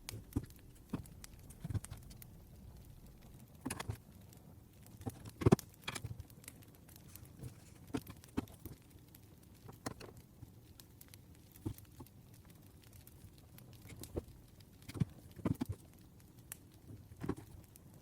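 Irregular light clicks and taps at an uneven pace, a few of them louder, over a faint low background hum.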